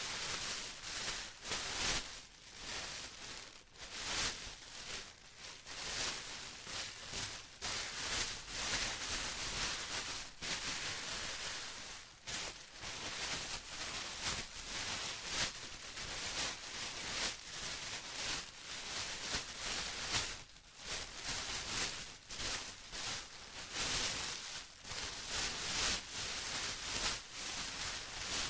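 Plastic being rustled and crinkled by hand, a continuous crackly noise that swells and eases irregularly.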